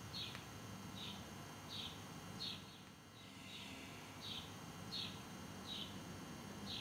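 A bird calling: a short high chirp repeated about nine times at a steady pace, roughly every two-thirds of a second, over faint low background noise.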